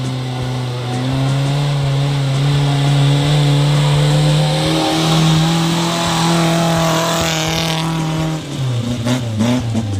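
Off-road 4x4's engine held at high revs under load as it climbs a muddy track, with a steady hiss over it. The engine note steps up about halfway through, and near the end the hiss stops and the revs drop away.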